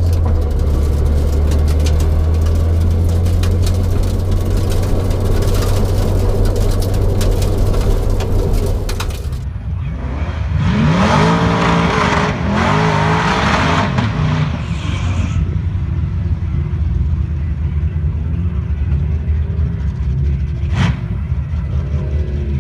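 Car engine running with a steady low drone. About ten seconds in the sound changes abruptly and the engine revs up and down for a few seconds, then it settles back to a low drone. There is one sharp click near the end.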